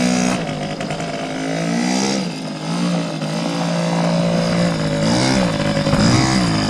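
A 1985 Yamaha Tri-Zinger's 60cc two-stroke engine running under a rider, its pitch holding and then dipping and picking up again a few times as the throttle is worked.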